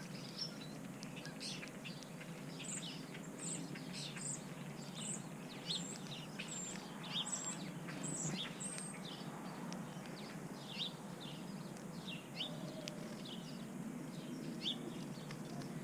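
Small birds chirping and calling, many short overlapping chirps, with one bird giving a run of about ten quick high-pitched notes in the middle, over a steady low background rumble.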